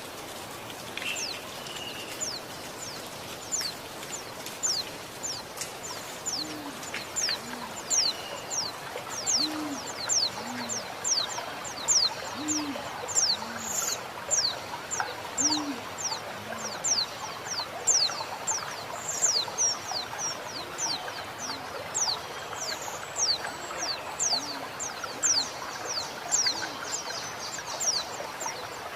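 Female white-eye (pleci) calling: a long run of short, thin, high notes, each falling steeply in pitch, about two a second. Underneath, a dove coos in low two-note phrases every few seconds, over the steady hiss of flowing water.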